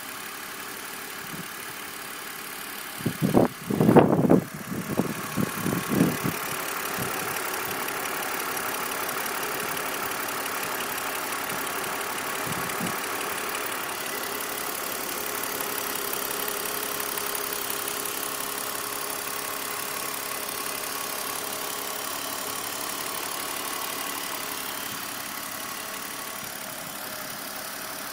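BMW E46 engine idling steadily, carrying a noise that the owner suspects is the valve lifters, not the DISA valve, which was checked. A few loud thumps come about three to six seconds in.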